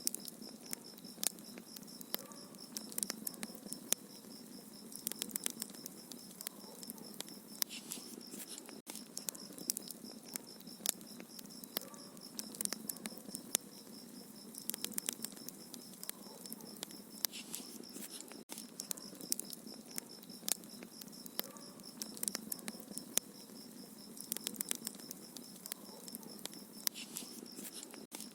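Wood fire crackling in a fireplace, with dense irregular pops and snaps, over a steady high-pitched pulsing tone.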